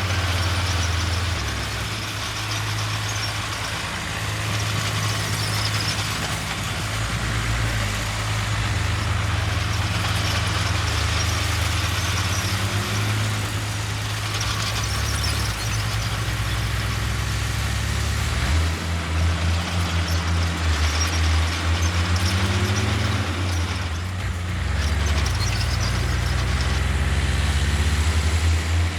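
Heavy diesel earthmoving machinery running continuously under load, the low engine note shifting in pitch several times as the machines work, over a constant noisy clatter.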